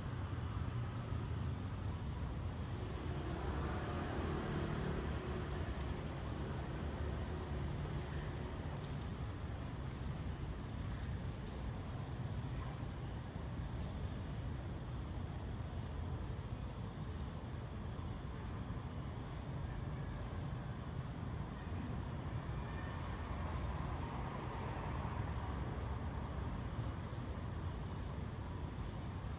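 Insects chirping in a fast, steady pulse, pausing briefly twice in the first ten seconds, over a constant low background rumble.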